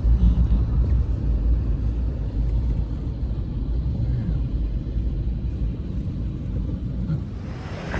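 Train crossing a railway bridge overhead: a steady low rumble that eases off near the end.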